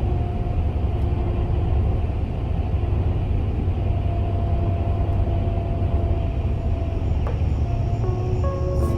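Steady low rumbling noise, with a faint steady tone above it; a few soft music notes come in near the end.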